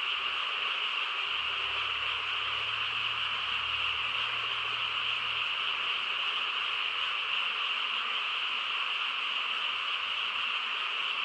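Dense frog chorus: many frogs calling at once, merging into one steady, unbroken high-pitched din.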